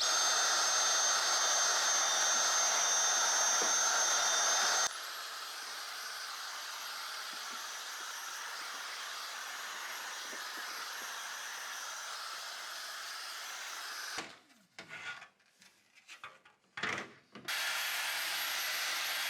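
Steady whir of a small electric motor with a thin high whine, loud for about five seconds, then quieter, then broken into short pieces before running steadily again near the end.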